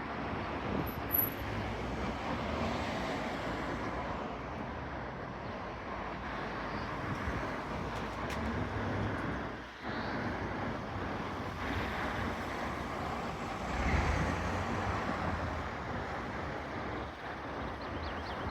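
Road traffic passing: a steady rush of car engines and tyres, swelling as a vehicle goes by about 14 seconds in.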